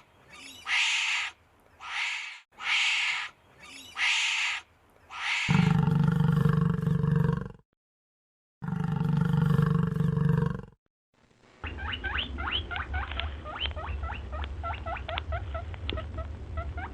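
Different animal calls one after another: about five short repeated cries, then two long deep roars, then a rapid run of quick chirps.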